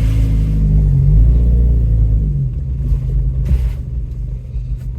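Off-road vehicle's engine pulling, heard from inside the cab: the pitch rises about a second in as it accelerates, then drops back as it eases off. A short rustle or scrape comes near the middle.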